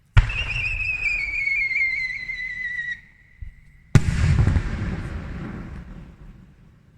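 A firework shell launches with a sudden thump and a loud whistle that slides slowly down in pitch for about three seconds. About a second after the whistle ends, the shell bursts with a sharp bang whose rumble fades over a couple of seconds, heard from close range.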